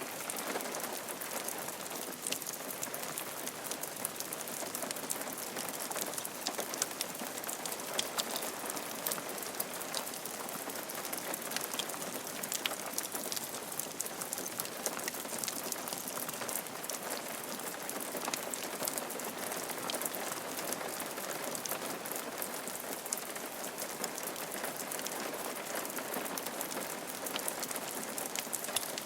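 Steady rain falling on a roof, a constant hiss with many individual drops ticking sharply throughout.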